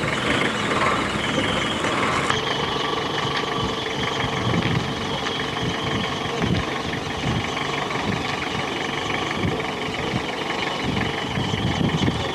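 Boat engine running steadily at a constant pitch, with irregular low rumbling underneath; the hiss in the highest range drops away about two seconds in.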